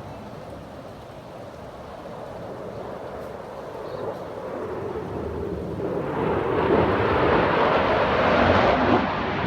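Jet aircraft flying past: a rushing roar that builds steadily for several seconds and is loudest in the last few seconds.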